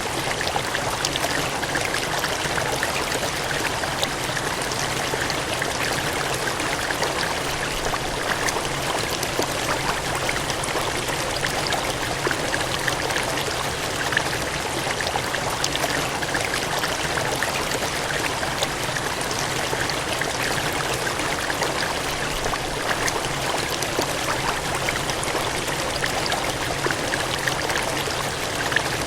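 Water gushing and cascading, a steady dense rush with small splashes throughout.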